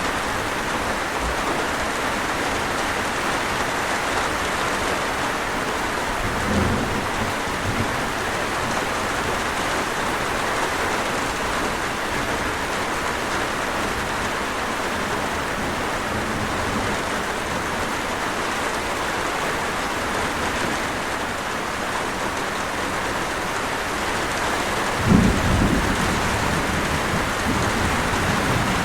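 Steady rain, with a brief low rumble of thunder about six seconds in and a louder one near the end.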